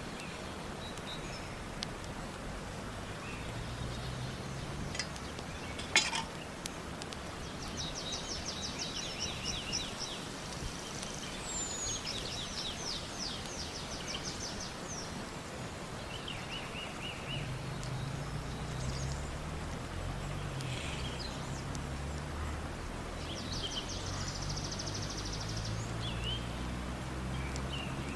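Wild songbirds singing, with several fast trilled phrases of rapidly repeated high notes, over a steady outdoor background hiss. There is a single sharp click about six seconds in.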